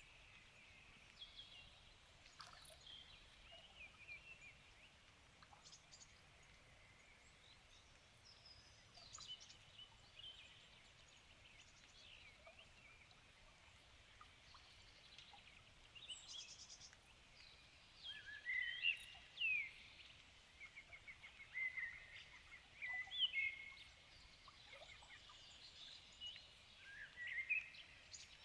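Several songbirds singing in the evening: short whistled phrases, chirps and rapid trills from more than one bird, over a faint steady hiss. The phrases get louder and busier in the second half.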